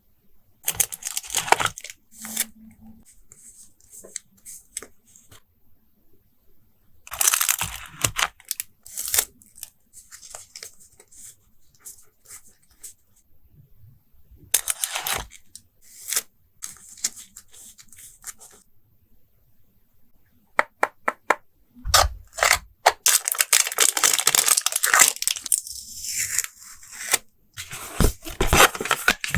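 Close-up handling of journal-collage stickers and tape: peeling off release paper and paper crinkling. It comes in separate bursts with quiet gaps between them, and the longest, densest stretch of peeling comes about two-thirds of the way through.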